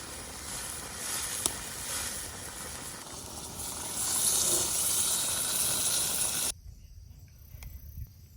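Tomato paste and tomato juice sizzling and hissing in a hot cooking pot over a wood fire. The hiss cuts off suddenly about two-thirds of the way through, leaving a faint quiet background.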